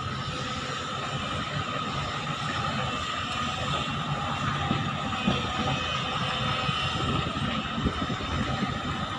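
Large Sunward hydraulic excavator working while loading a mining dump truck: its diesel engine runs steadily under a constant high whine, with a few brief knocks.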